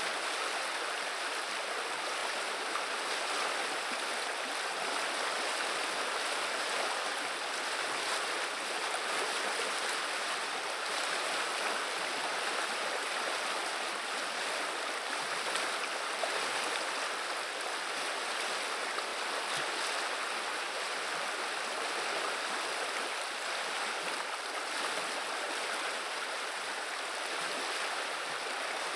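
River water running and gurgling steadily, a constant rushing murmur.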